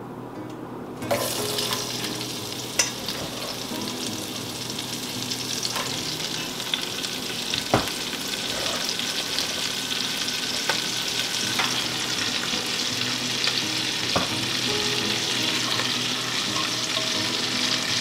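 Shredded cabbage sizzling as it is dropped by the handful into hot bacon drippings in an enamelled cast-iron Dutch oven. The sizzle starts about a second in and grows slowly louder as more cabbage goes in, with a few sharp clicks along the way.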